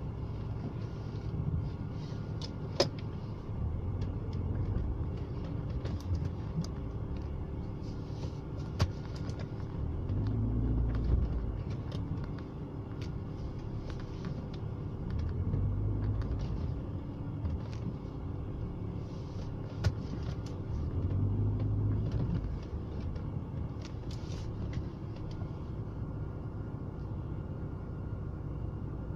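BMW E36's M43B18 four-cylinder engine idling roughly, its running swelling louder every few seconds, with a few sharp clicks. It is a rough idle whose cause the owner has not found.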